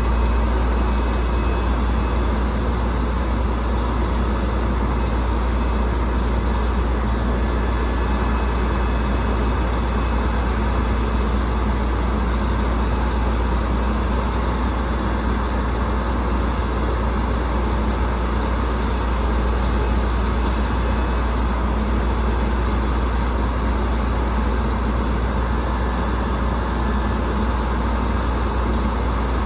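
Rooftop HVAC unit running: a steady, unchanging drone with a strong low hum.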